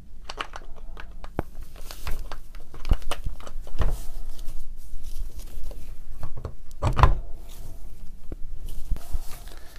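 Irregular clicks, knocks and scrapes of the AEG BH25 rotary hammer's parts being handled and fitted together as the housing is closed up, with a few louder knocks.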